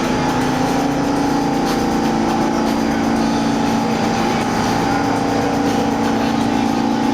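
Steady mechanical drone of a subway train at the platform, a rumbling noise with a constant hum running through it.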